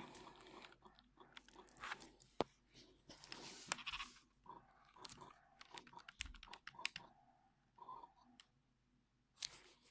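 Faint, irregular clicks and crackles from a Panasonic Lumix G80 with an Olympus 12-40 Pro lens, close to the microphone.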